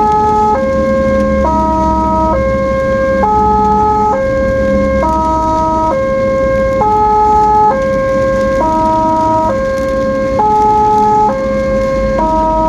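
Ambulance siren sounding a two-tone hi-lo wail, switching between a higher and a lower pitch about once a second, over a low road rumble.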